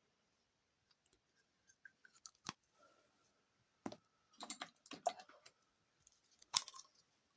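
Irregular clicks and light knocks of small hard objects being handled. The sharpest taps come about two and a half, four and six and a half seconds in, with a busier run of clicks around five seconds.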